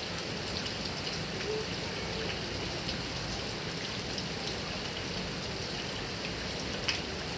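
Heavy rain falling steadily on grass and coconut palms: an even wash of rain with scattered louder drops, and one sharp drip about seven seconds in.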